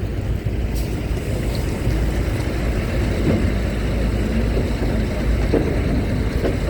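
Steady low rumble of heavy vehicle engines, trucks and cars running as they board a ferry.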